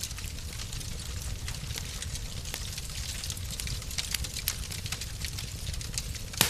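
Wood fire in a fireplace crackling, many small sharp snaps over a steady low rumble, with one louder pop near the end.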